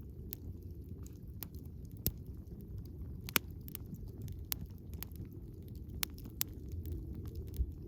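Wood campfire burning, with irregular sharp crackles and pops over a steady low rumble, one pop standing out about three and a half seconds in.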